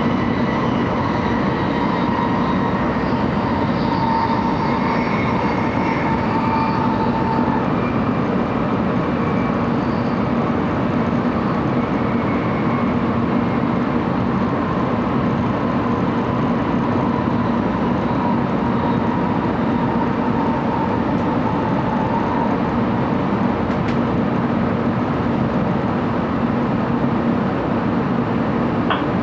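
Steady running noise inside the passenger cabin of a 700 series Shinkansen train at speed: an even roar of wheels and air with a faint steady whine.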